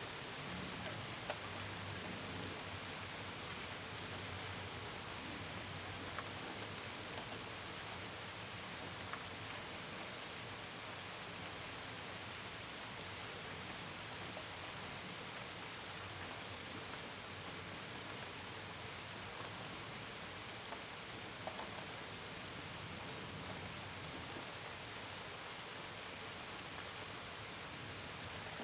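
Steady rain falling, with a few louder drops ticking sharply, and a cricket chirping in a steady run of short, high pulses.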